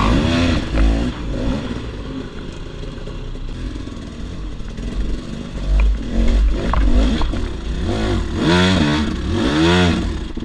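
KTM 300 XC-W two-stroke enduro motorcycle engine revving up and down under riding, with several quick climbs in pitch near the end.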